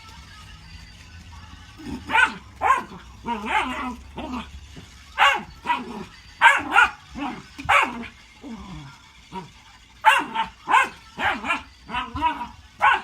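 A dog barking: a long run of short barks starting about two seconds in, some in quick pairs, with a brief lull near the nine-second mark before the barking picks up again.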